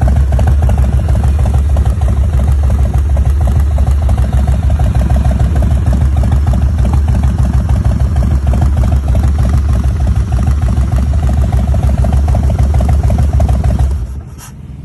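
2001 Harley-Davidson Heritage Softail's 1450 cc Twin Cam 88 V-twin idling steadily through Vance & Hines pipes on its original carburettor, then cutting off abruptly near the end.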